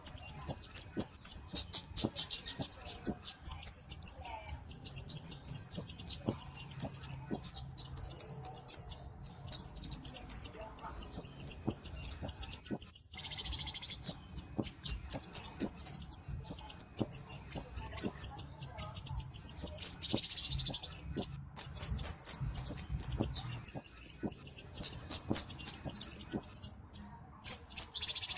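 Kemade (cabe-cabean), a flowerpecker, singing: rapid runs of very high, thin ticking notes in quick bursts, phrase after phrase, with short pauses between them and a longer pause near the end.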